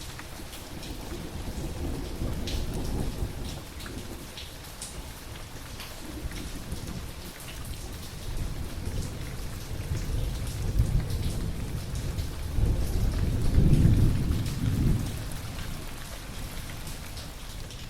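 Thunderstorm: steady rain falling, with low rolling thunder that swells and fades several times, the loudest rumble coming about three-quarters of the way through.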